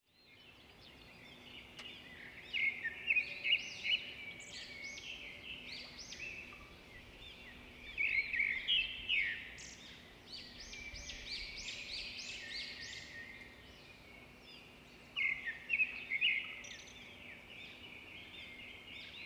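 Birds chirping and twittering: many quick short notes, louder in three flurries, over a faint steady hum.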